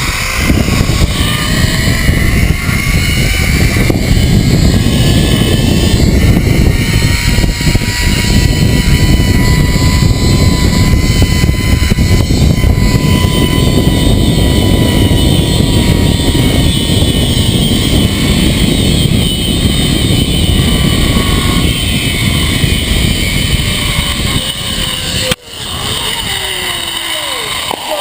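Zip line trolley's pulley wheels running along the steel cable, a whine that slowly rises in pitch as the rider picks up speed and then falls steeply as the trolley slows near the end. Heavy wind rush buffets the microphone throughout.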